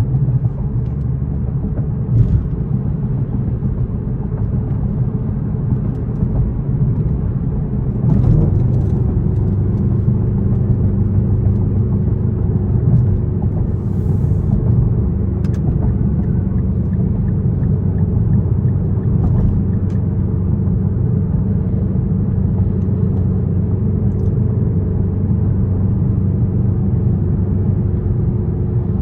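Straight-piped Infiniti M56's 5.6-litre V8 droning steadily, with a small rise in pitch and loudness about eight seconds in.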